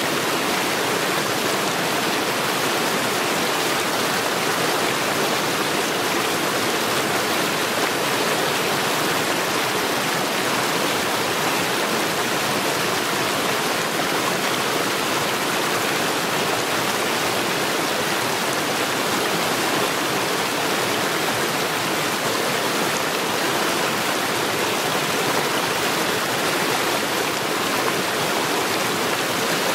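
Mountain stream rushing over stones, a steady, even rush of water.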